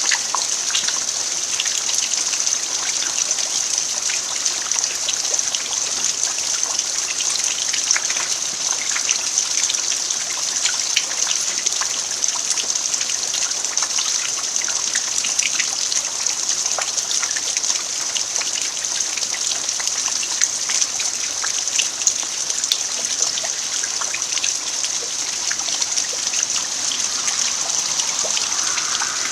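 Steady rain falling on a dirt yard: an even hiss with many separate drops ticking through it.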